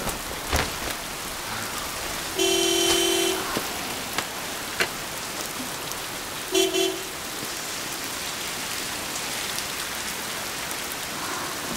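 Steady rain falling, with a car horn honking twice: a long toot about two and a half seconds in and a short one about four seconds later.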